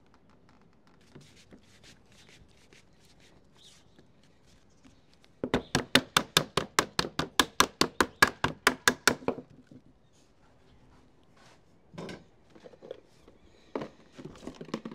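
Sheet lead being struck with a hand tool: a fast, even run of about two dozen sharp knocks, about six a second, lasting nearly four seconds, as the welts of a lead capping are knocked up. A few single knocks and handling sounds come before and after.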